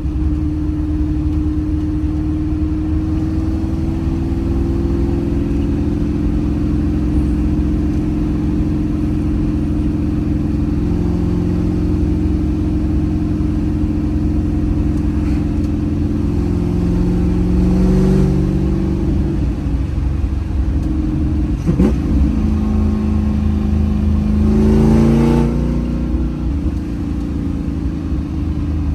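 Ford 347 stroker small-block V8 with solid lifters and a race cam, running steadily under way, its note drifting slowly in pitch. It swells about two-thirds of the way in and revs up and back down again near the end, with one sharp click between the two.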